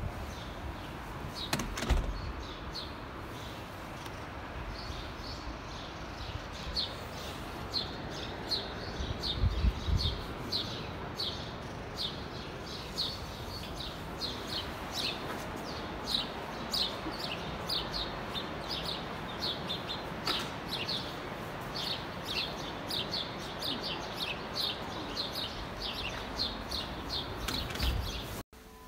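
Small birds chirping over and over in short, quick notes against a steady background hiss, with a few dull low thumps near the start and again about ten seconds in.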